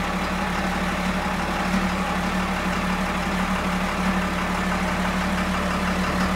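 Caterpillar 928G wheel loader's diesel engine idling steadily just after a cold start; the engine has no glow plugs.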